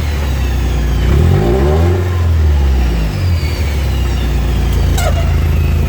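Subaru Impreza GC8's flat-four engine rising and falling in revs twice, then running at a steady speed. A brief falling chirp is heard about five seconds in.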